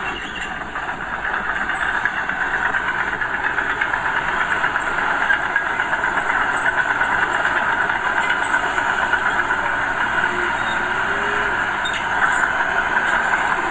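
Diesel earthmoving machinery running steadily under work, growing a little louder about a second in.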